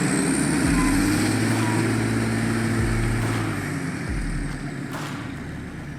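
Small excavator's diesel engine running steadily under load, with a faint high whine that slides in pitch near the start.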